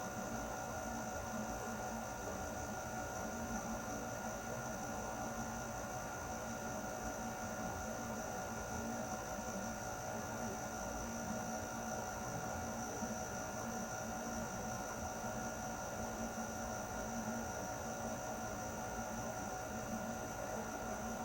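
Air conditioner running steadily: an even rush of air with a constant hum and a few steady whining tones.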